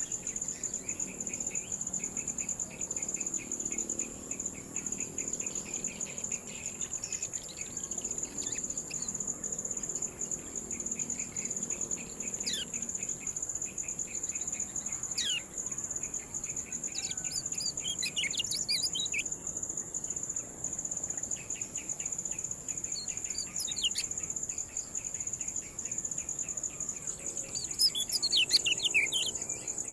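Kecial kuning 'ciak' calls: scattered sharp, falling chirps, a few on their own, then in small clusters, loudest near the end. Under them runs a steady high insect whine and rapid cricket-like pulsing.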